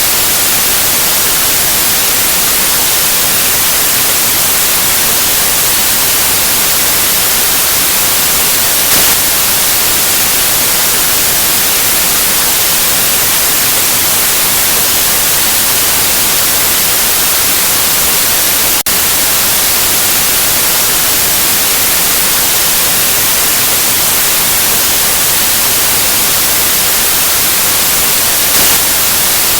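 Steady, loud white noise: an even hiss across the whole range, brightest in the highs. A brief tick and momentary dip come about two-thirds of the way through.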